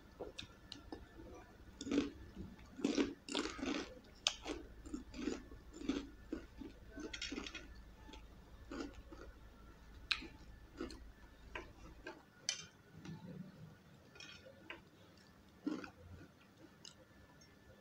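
Close-up crunching and chewing of a crisp fried snack, with dense crunches in the first half and only a few scattered crunches after that.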